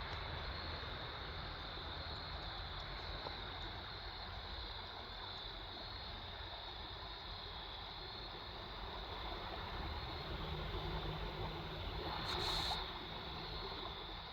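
River water flowing, a steady rushing noise with a low rumble. About twelve seconds in there is a brief louder burst of noise.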